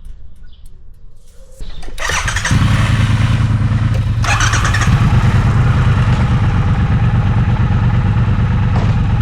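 Triumph motorcycle's parallel-twin engine starting about a second and a half in, then running steadily.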